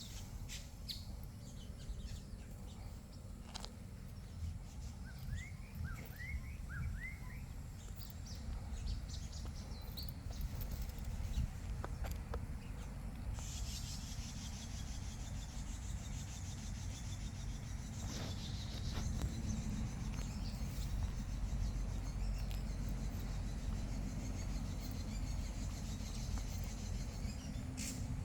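Wild birds calling outdoors over a steady low rumble. A few short rising chirps come about a fifth of the way in, then from about halfway a dense high-pitched chorus of chirping sets in and carries on.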